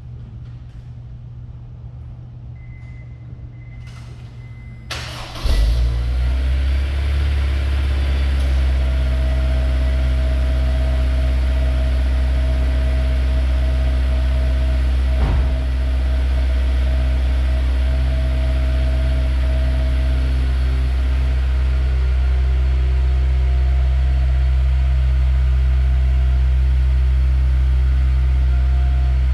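Honda S2000's four-cylinder engine starting: after a short high tone and a few clicks, it catches about five seconds in and settles into a steady idle, heard from beside the exhaust tips.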